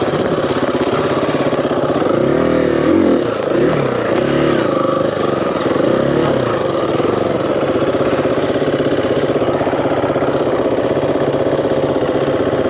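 Single-cylinder four-stroke dirt bike engine running on a trail ride. The revs rise and fall several times a couple of seconds in as the throttle is worked, then settle into a steadier run.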